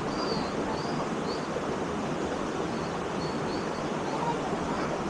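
Waterfall pouring into a rock pool: a steady, even rush of water.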